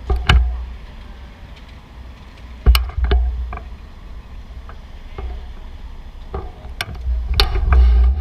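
Bicycle riding over city streets: a low rumble of wind and rolling wheels, broken by sharp rattles and knocks as the bike hits bumps, several times, loudest about three seconds in and near the end.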